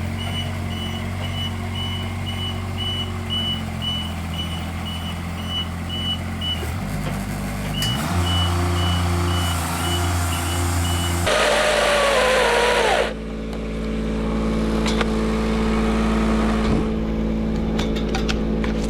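Cherry picker's diesel engine running steadily with its high-pitched motion alarm beeping in a rapid even pulse, which pauses briefly and starts again. About eleven seconds in, a loud rushing burst with a wavering whine lasts under two seconds, then the engine runs on.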